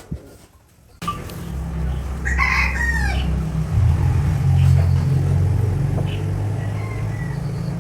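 A rooster crows once, a call of just under a second, over the steady low hum of a machine motor that starts up about a second in and keeps running, its pitch shifting a little midway.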